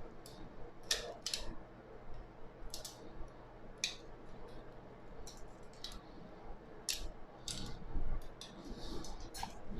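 Steel bicycle spokes clinking and ticking against each other and the hub as they are threaded into a wheel: a dozen or so irregular sharp metallic clicks.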